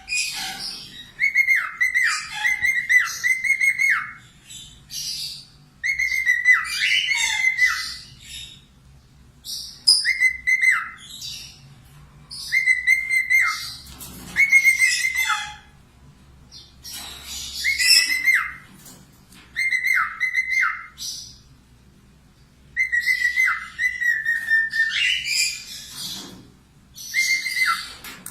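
A bird singing in repeated bursts of two to three seconds with short pauses between. Each burst is a run of clear whistled notes that drop at their ends, mixed with higher chatter.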